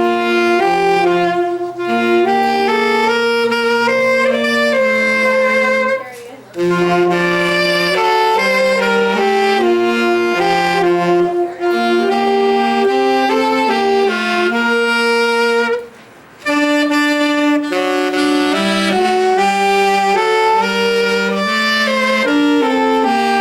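Live ensemble music: several instruments play a tune together in held notes and moving parts, breaking off briefly twice, about six and sixteen seconds in.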